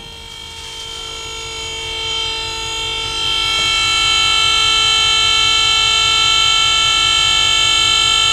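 Dump trailer's electric hydraulic pump running with a steady whine of several tones, growing louder over the first few seconds and then holding. The pump is working properly again, its loose remote-controller cable connection having been tightened.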